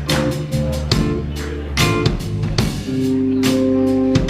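Live band playing a song's instrumental opening, with guitar and drum kit.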